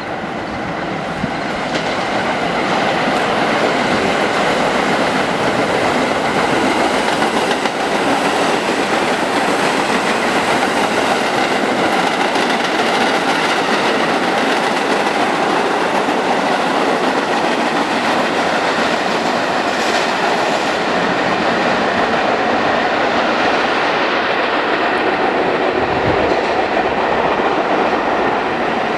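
New York City subway train running on the track, loud and steady, its noise building over the first few seconds and then holding.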